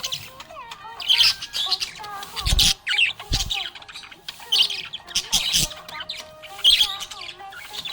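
Budgerigars chirping and chattering in quick, sharp high-pitched bursts, with a few low thumps in between.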